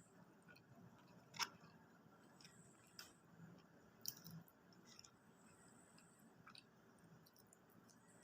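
Faint chewing and mouth noises of a person eating fast food, with a few sharp clicks, the loudest about a second and a half in.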